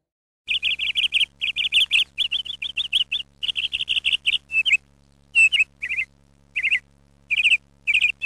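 A small songbird singing: quick runs of high chirps repeated with short gaps, dense at first and more spaced out in the second half.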